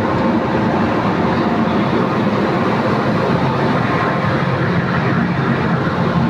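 Steady engine drone aboard a roll-on/roll-off ferry: a low, unchanging hum under a dense rushing noise.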